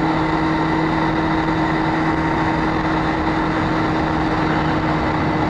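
Motorcycle cruising at a steady speed: a steady engine hum under a constant rush of wind and road noise.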